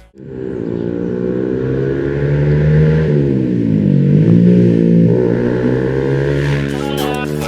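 Small sport motorcycle engine running through an aftermarket PISTON full-system exhaust, revved up and let back down a couple of times.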